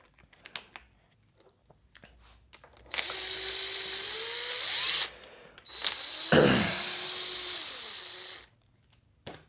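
Small power tool, like a cordless drill or driver, running the bolts in two runs of about two seconds each, its motor pitch rising a little in each. A clunk comes as the second run starts, after a few light clicks of handling tools.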